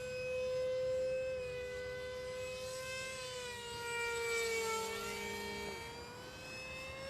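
Whine of a 50mm electric ducted fan in a small RC F-86 Sabre jet in flight. Its pitch falls about halfway through, then rises sharply near the end as the fan is throttled up. A second, lower steady engine tone drops out about three quarters of the way in.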